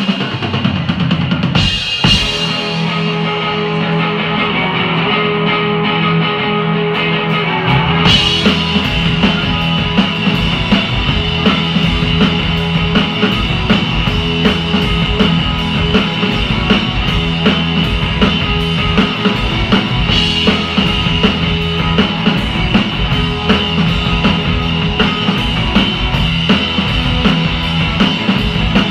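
Live band playing loud rock music over a driving drum kit with bass drum and snare hits. The sound gets fuller and brighter about eight seconds in.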